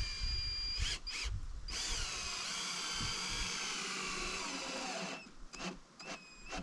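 A power tool motor running with a high whine for about five seconds, pausing briefly near the start, then stopping abruptly and giving two or three short bursts near the end.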